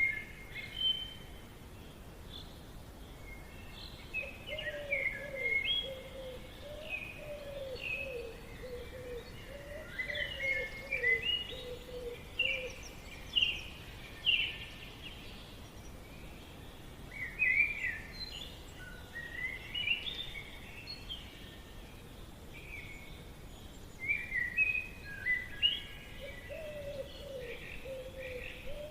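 Several wild songbirds chirping and singing in quick, overlapping phrases. A lower bird call repeats as a run of short falling notes for several seconds, twice, over a faint steady background hiss.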